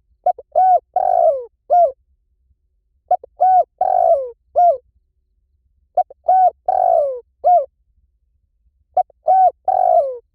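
Spotted dove cooing: its phrase of short arched coos around one longer falling coo, repeated four times about three seconds apart.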